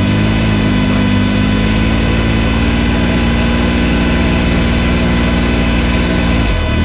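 Can-Am Maverick X3's turbocharged three-cylinder engine running at low, steady revs. Its pitch rises a little in the first second, holds, then changes shortly before the end.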